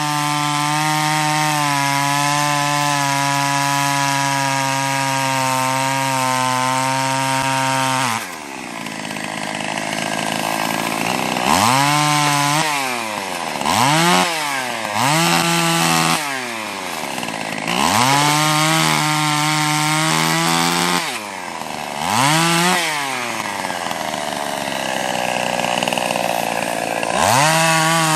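Two-stroke chainsaw cutting limbs from a felled tree: held at full throttle for about eight seconds, then dropping to idle and revved up again about six times for a string of short cuts.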